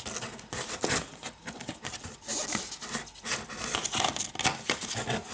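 Parcel packaging being opened by hand: crinkling, rustling and tearing, with many short taps and scrapes.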